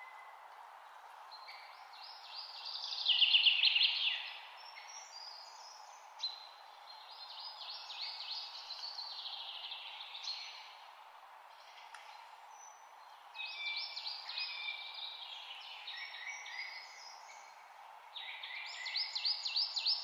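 A songbird singing several bursts of rapid, high trilling chirps, loudest about three seconds in, over a steady background hiss.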